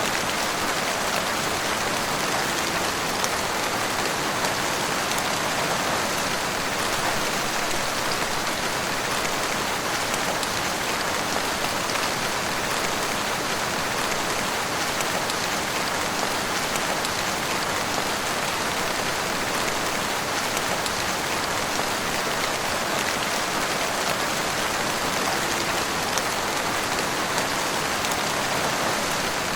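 Heavy rain falling steadily, a dense hiss flecked with countless small drop hits, unchanging throughout.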